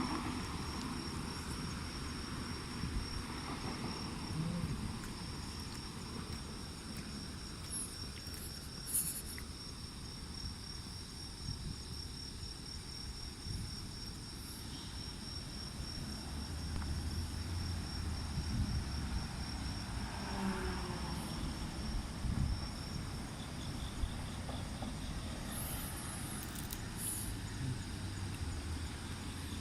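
Insects trilling in one steady high note that fades out about two-thirds of the way through, over a low rumble, with a few faint brief rustles.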